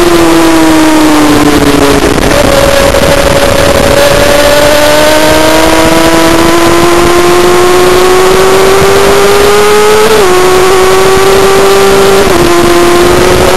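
Racing motorcycle's engine heard onboard at speed, with wind rushing over the microphone. The engine note falls for the first couple of seconds, then climbs steadily as the bike accelerates, and drops suddenly twice near the end as it shifts up a gear.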